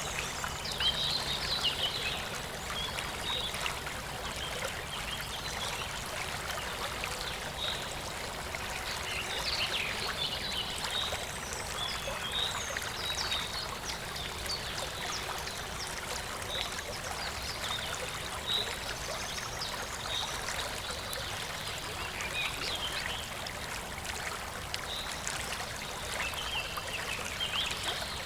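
Shallow rural stream flowing steadily, babbling and trickling over stones with many small splashes and gurgles.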